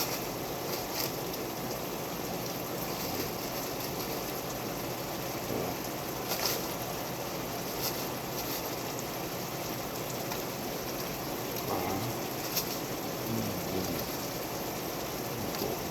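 Red wine reduction simmering in a skillet: a steady sizzling, bubbling hiss, with a few faint clicks scattered through it.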